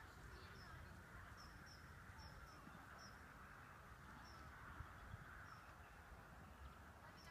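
Near silence outdoors: faint low wind rumble, with small high chirps of a distant bird about once or twice a second.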